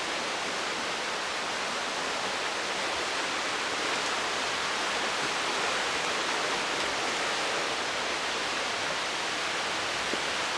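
Mountain stream rushing through a gorge: a steady, unbroken hiss of running water.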